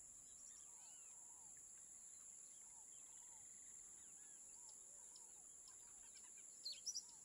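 Near silence with faint birds chirping in short, scattered calls, a couple of them a little louder near the end.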